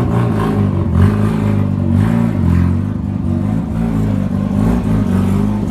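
A motor vehicle engine running, its pitch rising and falling again and again as it is revved.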